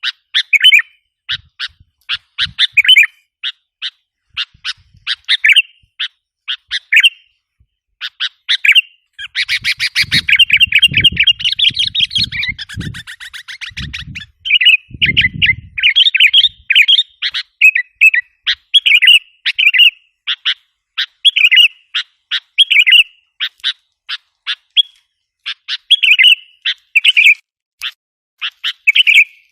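Sooty-headed bulbul calls played as a lure track: short, sharp chirping notes repeated in quick groups. A dense, rapid chatter of notes comes near the middle, with some low thuds under it.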